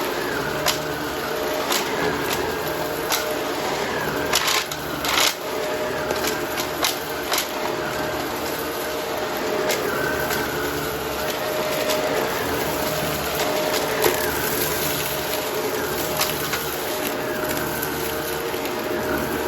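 Vacuum cleaner motor running steadily while it sucks up crunchy debris, with scattered sharp clicks and crackles as bits rattle through, bunched most thickly about four to five seconds in.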